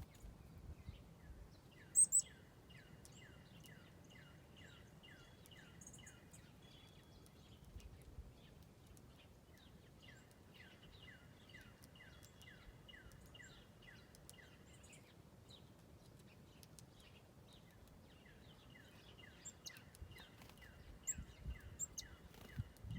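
A songbird singing long runs of quick, repeated down-slurred whistles, about three a second, in three bouts. A few sharp, very high chirps about two seconds in are the loudest sounds, over a faint outdoor rumble.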